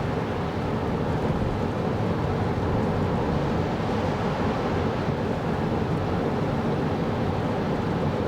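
2024 Kia Carnival Hybrid minivan driving: a steady rumble of road and tyre noise with no changes in pitch or level.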